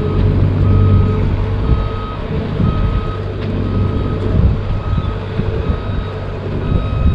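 A vehicle's reversing alarm beeping steadily about once a second, each beep about half a second long, over the low rumble of the vehicle's engine as it backs up.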